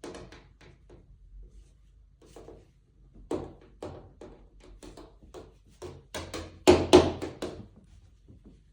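A pet rook pecking with its beak at a mirror: a long irregular series of sharp taps and knocks, with the loudest pair about seven seconds in.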